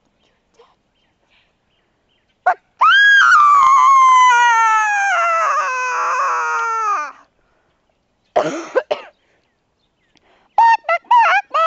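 A person's voice, likely one of the children, letting out a long wail of about four seconds that falls steadily in pitch, then a short cry, then a fast run of short yelps, about four a second, near the end.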